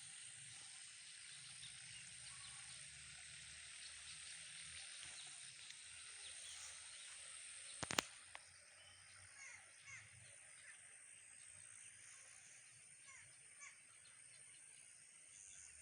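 Faint chirping of many small birds over a steady high hiss, with one sharp click about eight seconds in.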